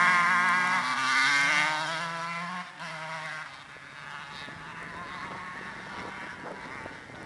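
125 cc two-stroke dirt bike engine revving hard close by, its pitch rising and falling, then fading to a fainter drone about three seconds in as the bike moves away.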